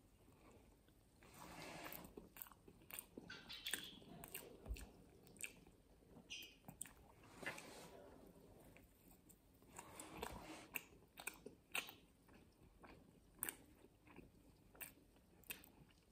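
Close-up eating sounds of a person biting into and chewing a savoury pastry: quiet crunches of the baked crust and irregular wet mouth clicks as she chews.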